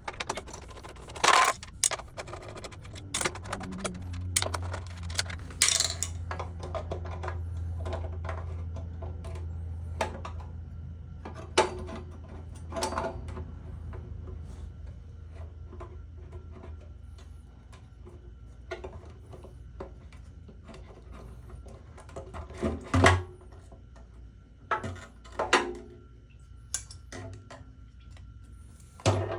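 Intermittent metallic clinks and clanks of hand tools and small metal parts being handled during motorcycle repair work, with a low steady hum for several seconds in the first half.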